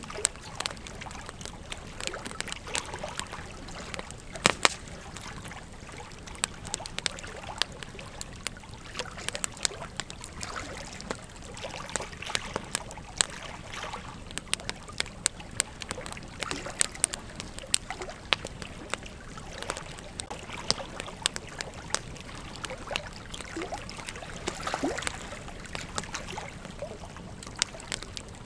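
Campfire burning with frequent sharp crackles and pops over a steady hiss, the loudest pair of snaps about four and a half seconds in.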